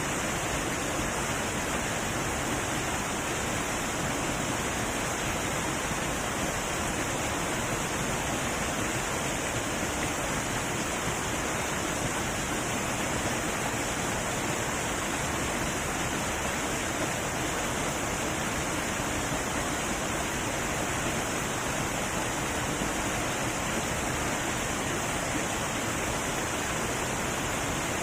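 Heavy waterfall rushing steadily, a constant hiss of falling water with no change in level.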